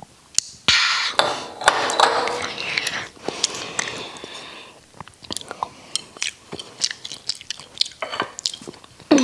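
Close-miked chewing and wet mouth sounds, loudest in the first half. These are followed by a run of quick light clicks as chopsticks tap and scrape against a ceramic rice bowl and plate.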